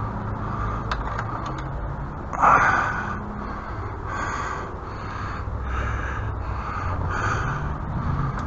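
A crow cawing repeatedly, a run of harsh caws about one a second, the loudest near the start, over a steady low rumble.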